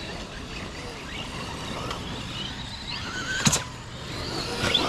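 Battery-electric RC monster trucks driving around the track, their motors whining up and down in pitch with the throttle. A single sharp knock about three and a half seconds in is the loudest sound.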